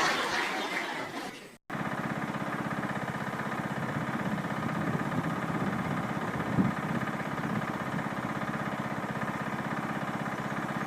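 An engine running steadily at idle, starting just after a brief drop to silence near two seconds in; before that, the tail of a louder noisy sound fades out.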